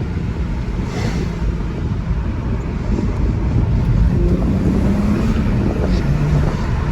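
A BMW 335xi's twin-turbo inline-six with an Injen cold air intake running under way, its engine and intake note over heavy road and wind noise. The engine pitch climbs a little about five seconds in.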